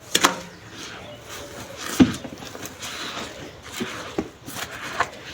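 Soft sand clumps crumbling and being crushed on a clay pot: gritty crackling with about five sharp crunches, the loudest about two seconds in.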